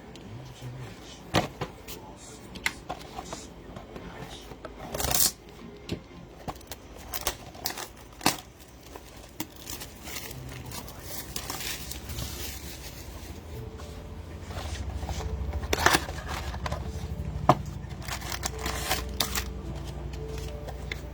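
Trading card packs being handled: foil wrappers rustling and cards tapping and clicking in a string of small sharp sounds, with a longer rustle about five seconds in. A low hum comes in about twelve seconds in.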